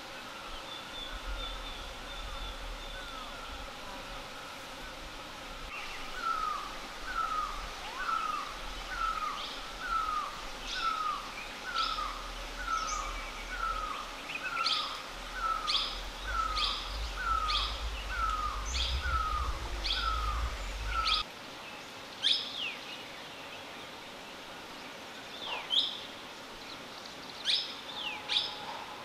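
Wild birds calling: one repeats a short falling note about twice a second for around fifteen seconds, while another gives sharp high chirps that carry on near the end. Wind rumbles on the microphone until it stops abruptly about two-thirds of the way through.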